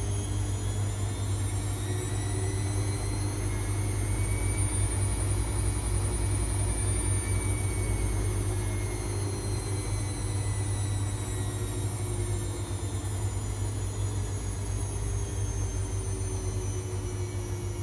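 Privileg 5020 washing machine running, its drum motor whining up in pitch for about six seconds and then slowly winding down, over a steady low hum. The owner says the motor audibly shows its years of laundry service.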